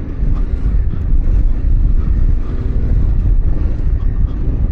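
Yamaha Ténéré 700's parallel-twin engine running under throttle as the bike rides through loose sand, with a heavy, steady low rumble.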